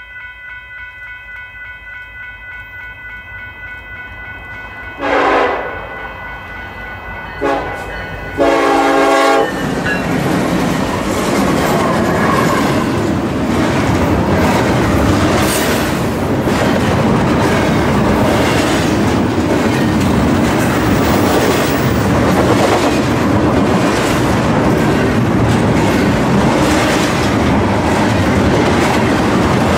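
A locomotive horn blows a blast about five seconds in, a short blast a couple of seconds later and a longer blast right after. The train then passes close by at speed, its wheels and cars rushing and clattering over the rail joints.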